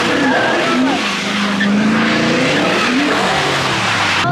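Car engine revving up and down with tyres spinning and skidding on the pavement.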